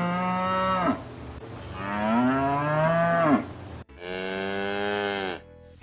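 Cow mooing: a long moo ending about a second in, then two more long moos, the last cutting off abruptly.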